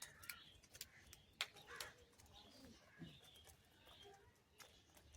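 Faint bird calls with a few sharp taps or clicks scattered through, the loudest about a second and a half in.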